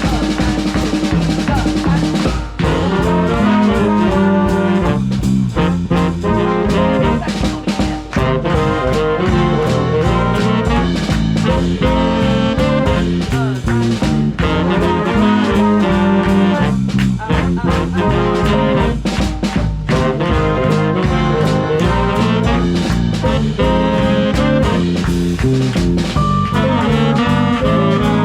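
Swing band playing a tune live: a brass section with trombones and trumpets over a steady swing beat on bass and drum kit.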